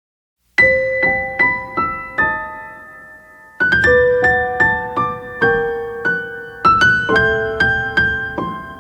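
Piano playing a slow, gentle intro: single notes and then chords, each struck note ringing and fading. It begins about half a second in after a short silence.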